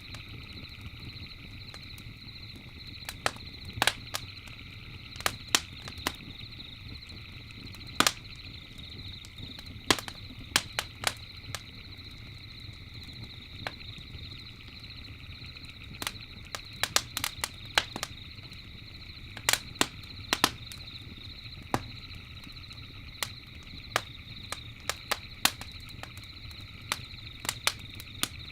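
Campfire crackling, with irregular sharp pops and snaps of burning wood, a few much louder than the rest. Under it runs a steady high-pitched trilling background.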